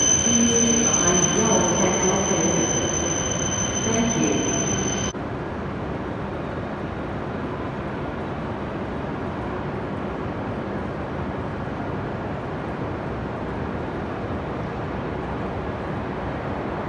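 Shinkansen train running slowly in the underground station, a steady high whine over the running rumble. About five seconds in it cuts abruptly to the steady hum of the empty underground platform.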